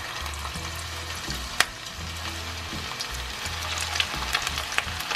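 Hot oil sizzling and crackling in a frying pan as raw minced-meat köfte are laid in, the crackle growing busier as more meatballs go in. A single sharp click about a second and a half in.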